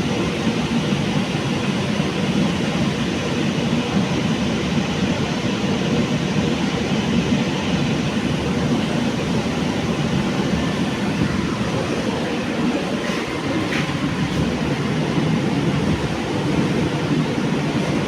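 Kolkata Metro train running: a steady, unbroken rumble of wheels and running gear.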